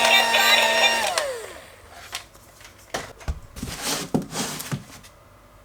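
A battery-powered toy robot's electronic sound and motor, running with steady tones, slide down in pitch and stop about a second and a half in, as if switched off or winding down. Scattered clicks and short rustles of handling follow.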